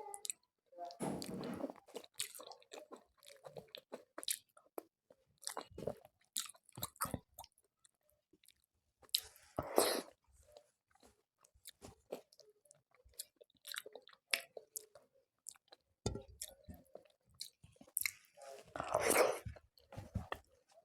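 Close-up chewing and eating sounds: many short wet mouth clicks, with three longer, louder bursts of chewing or crunching, about a second in, near the middle and near the end.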